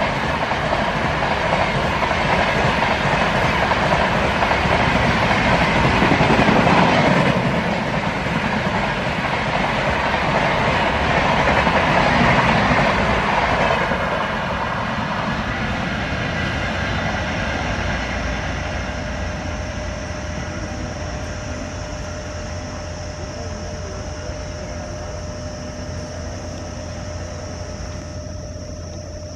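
Passenger coaches of an express train rushing past at speed, the wheels rattling on the rails. The noise swells twice and then fades away steadily over the second half as the train recedes.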